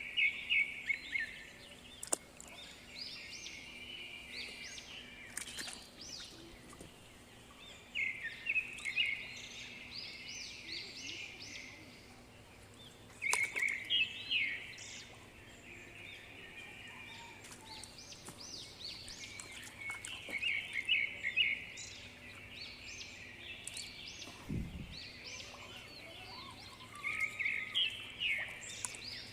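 Birds chirping in short bursts of rapid notes every few seconds, over a faint steady hum. A single low thud comes about three-quarters of the way through.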